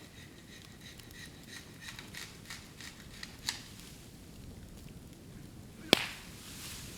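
Bamboo burning in a bonfire: scattered crackles and pops with a faint high whistle for the first two seconds. About six seconds in, one sharp loud bang as a bamboo section bursts, followed by a brief hiss.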